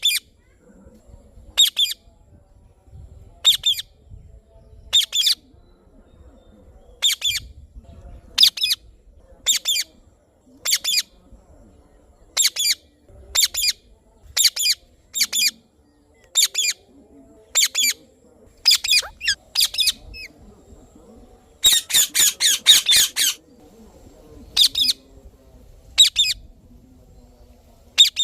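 Indian ringneck parakeet giving short, high-pitched calls about once a second, with a quick run of about eight calls in a row before two more single calls near the end.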